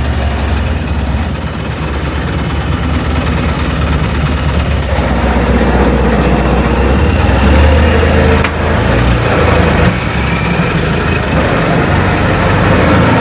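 Longtail boat engine idling with a deep, steady hum, growing louder over the first several seconds.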